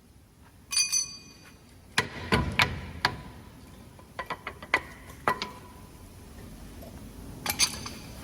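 Metal parts knocking and clinking against each other, about a dozen irregular strikes, several leaving a brief metallic ring. The loudest cluster comes around two seconds in, with another near the end.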